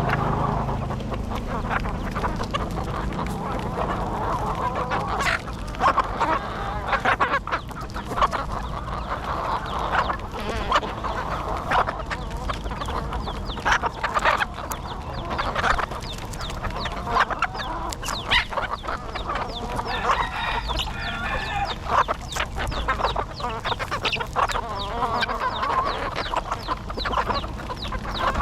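A flock of chickens, roosters and hens, clucking, with many short, sharp calls and clicks.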